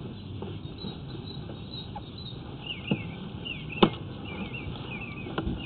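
Small birds chirping in short, repeated rising-and-falling notes from about halfway in, over a steady low background hum, with a few sharp clicks, the loudest about two-thirds of the way through.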